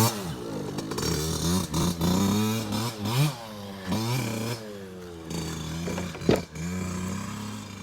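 Dirt bike engine revving in a series of throttle blips, its pitch rising and falling about once a second, then running at a steadier, lower note. A brief sharp knock comes about six seconds in.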